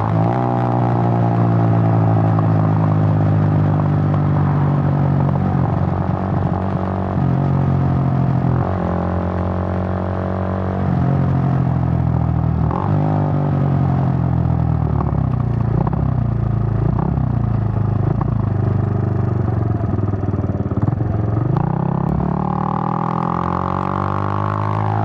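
Suzuki GN125's single-cylinder four-stroke engine on the move, revving up through the gears with the pitch dropping at each shift. Through the middle the revs fall as the bike slows, and near the end the engine revs up hard again.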